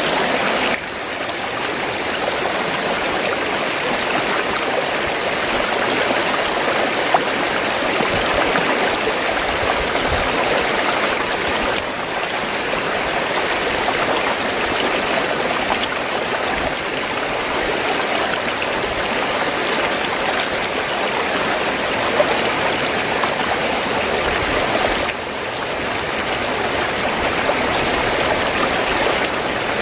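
Fast-flowing stream, water rushing and gurgling steadily, with small dips in level about a second in, near the middle and a few seconds before the end.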